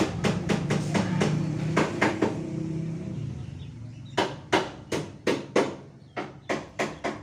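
A rapid series of sharp metallic knocks and taps, about three a second, from tools on engine parts during engine assembly, over a low hum. The knocks grow fainter towards the end.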